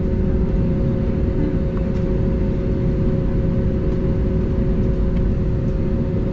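Steady rumble of Airbus A320neo cabin noise, engine and airflow, heard from inside the cabin, with two steady hums on top.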